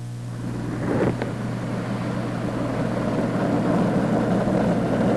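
Small motorcycle engines running, growing louder after the first couple of seconds, with a short knock about a second in.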